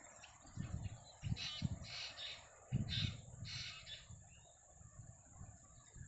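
A bird gives about five harsh, rasping calls, starting about a second in and ending around four seconds in. Underneath run a steady high insect drone and a low, irregular rumble.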